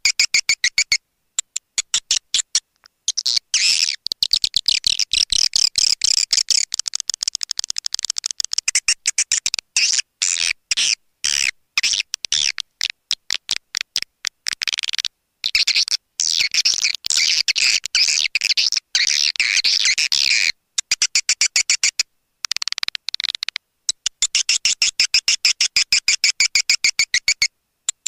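Swiftlet calling sound, the lure call played to draw swiftlets into a nesting house: rapid, high-pitched twittering chirps in runs of a few seconds, with short silent breaks between them.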